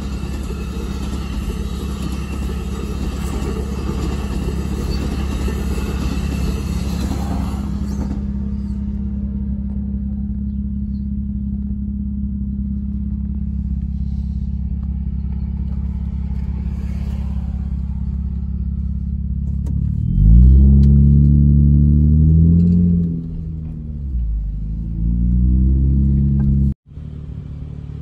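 A New Jersey Transit commuter train rolling past a grade crossing for the first eight seconds or so, over a steady low engine hum that carries on after the train has gone. About twenty seconds in, an engine revs up and down for a few seconds, then the sound cuts off abruptly to street traffic noise.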